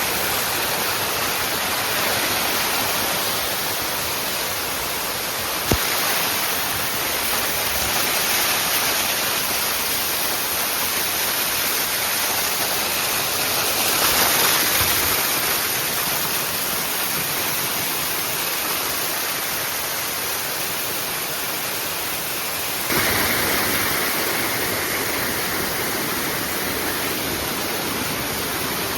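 Steady rush of water in a mountain stream and waterfall, with a single short knock about six seconds in; the rush changes in tone twice.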